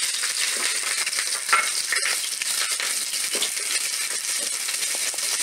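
Cut green chilies frying in hot oil in a non-stick pan: a steady sizzle with many small clicks and taps as a wooden spatula stirs them against the pan.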